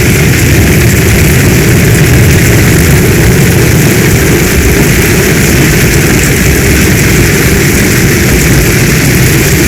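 Heavy storm rain falling steadily: a loud, even wash of noise with a deep rumble underneath, without single drops or thunder standing out.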